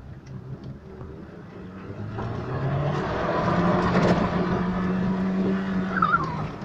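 Car engine heard from inside the cabin while driving, its pitch climbing as it accelerates about two to three seconds in, then running steadily at higher revs before easing off near the end.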